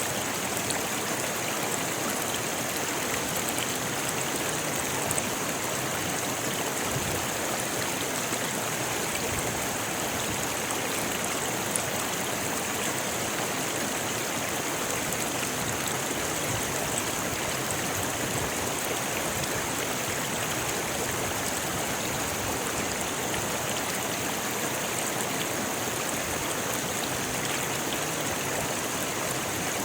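A rocky river flowing: a steady, unbroken rush of water over stones.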